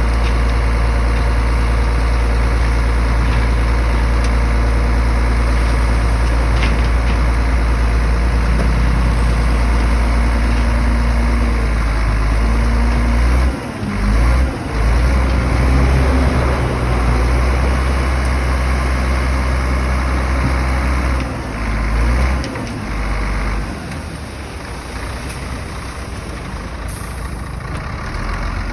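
Heavy diesel engine of an earthmoving machine running with a deep, steady hum. Its sound briefly dips and surges about halfway through and again a few seconds later, then runs a little quieter near the end.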